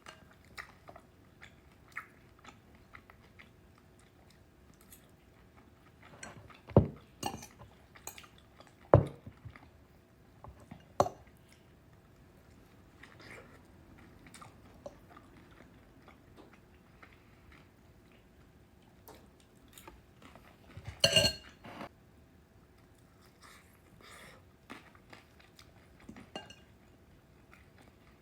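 Chewing dumplings, with a spoon knocking and clinking against the bowl a few times as bites are scooped up. The loudest is a short cluster of clinks about three-quarters through.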